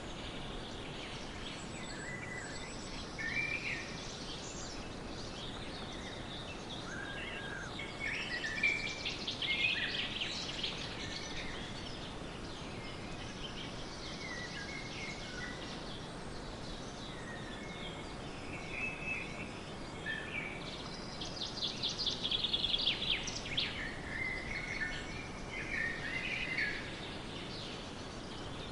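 Birds chirping and singing over a steady background hiss, with bursts of rapid trilling about eight seconds in and again past twenty seconds.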